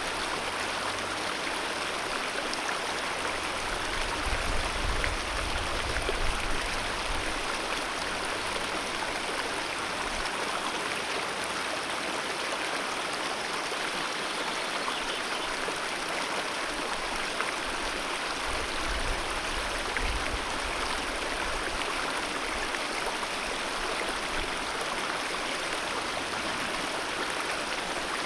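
Mountain river rushing over rocks, a steady full water noise with no change, with a low rumble that comes and goes in the first few seconds and again about two-thirds of the way through.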